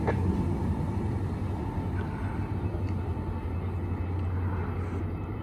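Metrolink commuter train with an MP36PH-3C diesel locomotive pulling away: a steady low diesel drone over rolling rumble, fading slowly as the train recedes.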